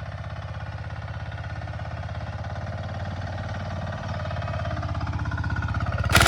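Compact tractor engine running steadily at low speed with evenly spaced firing pulses, growing slowly louder. Near the end it turns suddenly much louder and harsher.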